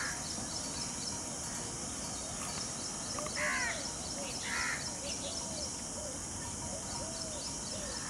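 Two short, harsh bird calls a little over a second apart, about three and a half seconds in, over steady outdoor background noise.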